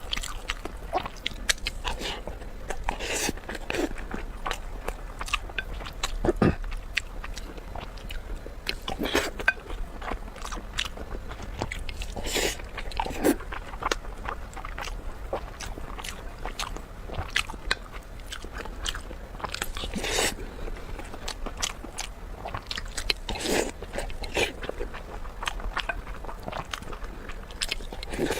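Close-miked eating sounds: a person biting and chewing food, with many short, irregular crunches and clicks.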